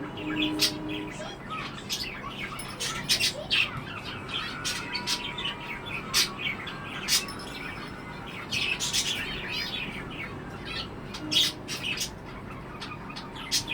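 Budgerigar chirping and chattering: a steady run of quick, high chirps with a few louder, sharper calls scattered through.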